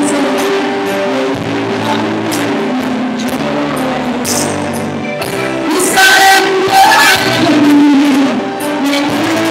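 Live band music with guitar and singing.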